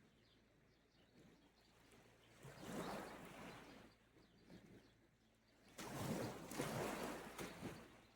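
Small sea waves washing onto the shore, rising and falling twice.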